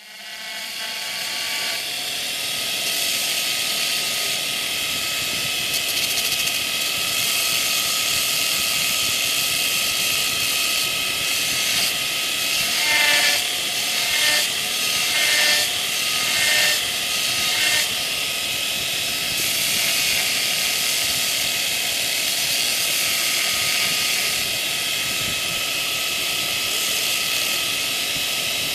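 Electric grinder running and grinding the steel heel of a horseshoe to clean off the fins: a steady whining hiss that spins up over the first couple of seconds, with several louder swells in the middle as the steel is pressed to the wheel.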